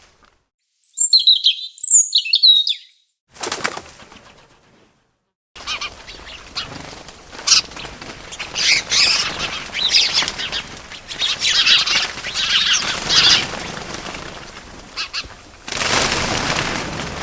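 Small birds chirping and fluttering their wings: a pair of short high chirps about a second in, then after a brief silence a stretch of wing flutter mixed with chirps, with a louder burst of flapping near the end.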